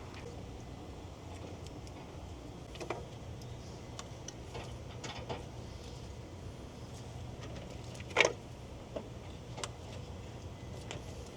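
Scattered light clicks and taps of hand tools and engine parts being fitted, with one louder clack about eight seconds in, over a steady low hum.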